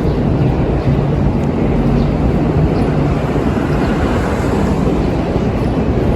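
Steady rumbling noise of a moving vehicle, with a faint low hum underneath.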